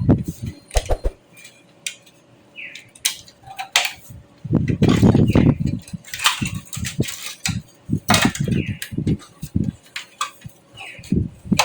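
Irregular metallic clicks, clinks and knocks from computer parts and screws being handled on a metal PC case, with a heavier knock about five seconds in.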